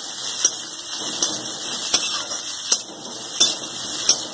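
Sliced onions and green chillies sizzling in oil in a kadhai, with a metal spatula knocking and scraping against the pan about six times at a steady stirring pace.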